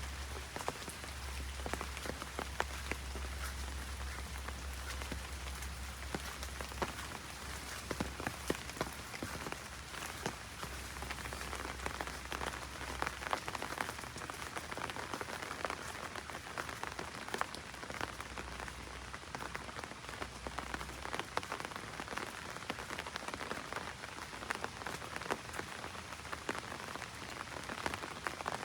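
Heavy rain drumming on an umbrella overhead: a dense patter of individual drops ticking on the canopy. A low steady rumble lies underneath and drops away about two-thirds of the way through.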